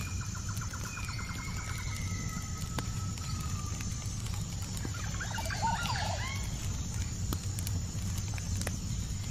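Night-time nature ambience: a steady low rumble with scattered faint crackles. Over it, a bird trills with a long whistled note through the first three seconds, then gives a quick flurry of short chirping calls about five to six seconds in.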